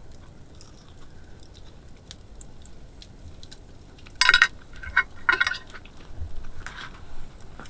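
Someone eating: fairly quiet at first, then a handful of short sharp clinks and crunches about four to five and a half seconds in, with one more near the end.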